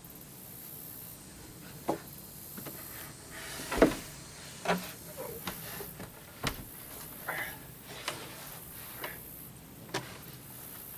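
Scattered knocks and clunks, about eight in all, from handling hard parts; the loudest is about four seconds in.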